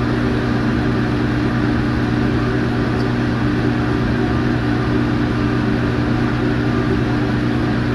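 Steady low mechanical hum of running machinery, with a few held low tones that do not change.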